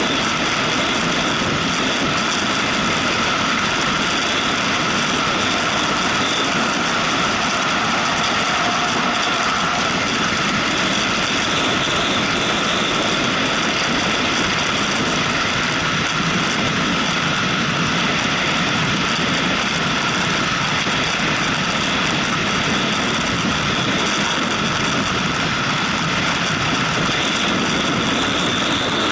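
Steady, unbroken noise of a motorcycle under way, engine drone mixed with rushing air.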